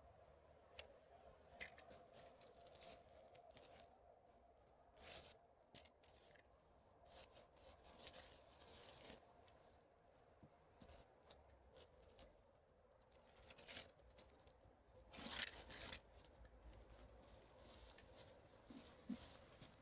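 Irregular rustling and crackling of forest-floor litter and plastic rubbish being handled, in short scratchy bursts, the loudest about three quarters of the way in.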